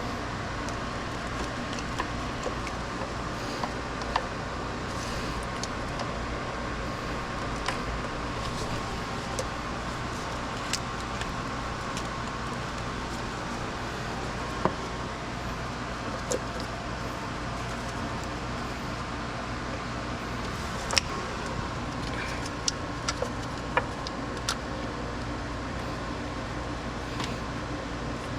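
Steady mechanical hum with a faint whine, and scattered light clicks and taps of hand tools and parts being handled.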